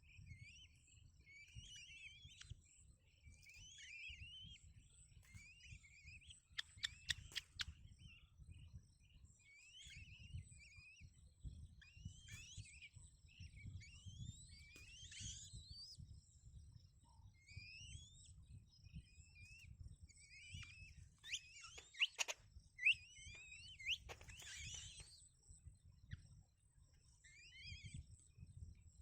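Baby birds in the nest cheeping: thin, high chirps that rise in pitch, repeated over and over, with a few sharp clicks about seven seconds in and again in the last few seconds, over a faint low rumble.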